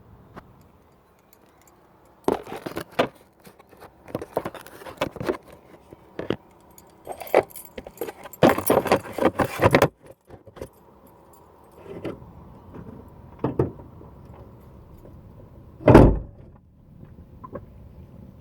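Irregular clicking and rattling clatter close to the microphone in a car's engine bay, in scattered clusters with a dense run of clatter partway through, over a faint steady hum; near the end comes one heavy thump.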